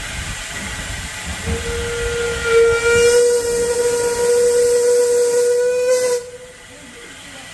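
Steam whistle of a National Coal Board 0-6-0 tank engine blowing one long steady note of about five seconds over a hiss of steam, then cutting off sharply.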